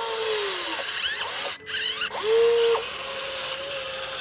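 Electric motor of a radio-controlled construction model whining steadily. It sags in pitch under a second in, stops briefly about a second and a half in, then starts again and holds a steady pitch.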